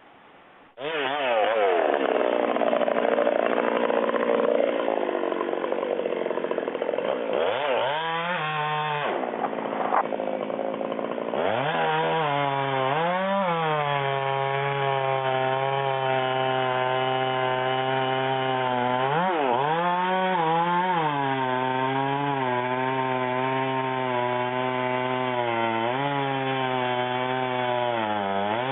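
Two-stroke chainsaw running at full throttle and cutting wood, starting abruptly about a second in; its engine note sags and picks back up again and again as the chain bites under load.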